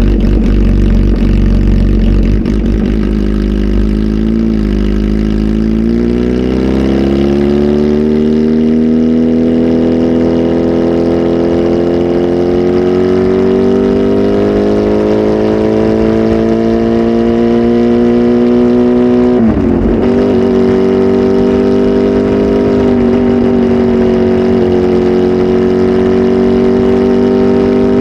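Kawasaki Z H2 SE's supercharged 998 cc inline-four, running through a full aftermarket exhaust with a flash-tuned ECU, pulling with its pitch rising steadily for over ten seconds. There is a brief break about twenty seconds in, after which it runs on at a near-steady pitch.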